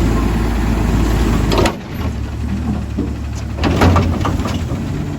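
Garbage truck's diesel engine running hard, its low rumble dropping off suddenly about a third of the way in, then a few metal clanks and knocks over a quieter idle.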